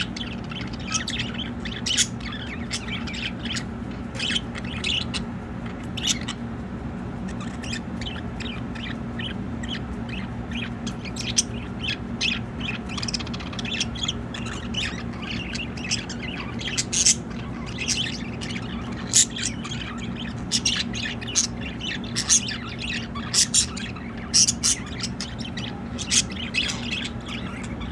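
A flock of budgerigars chattering: many short, high chirps and squawks come thick and irregular throughout, over a steady low hum.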